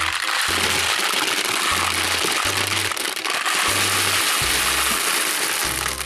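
Gumballs pouring and tumbling in a dense, unbroken rattle, with children's background music and a repeating bass line underneath.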